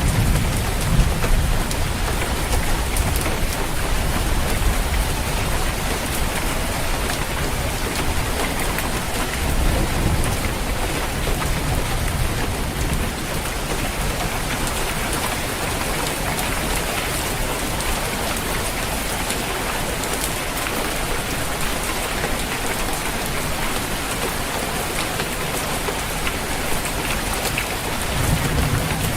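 Steady heavy rain pattering on a roof, with low rolls of distant thunder rumbling under it at the start, again around ten seconds in, and near the end.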